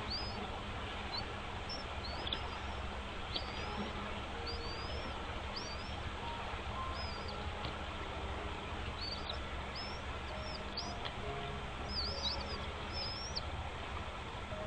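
Bird chirping: a series of short, high, arching chirps, a second or less apart and bunched more closely near the end, over a steady background hiss.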